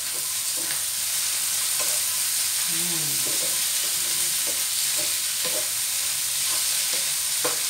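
Shrimp frying in butter and oyster sauce in a frying pan, a steady sizzle, while a wooden spatula stirs them, knocking against the pan now and then.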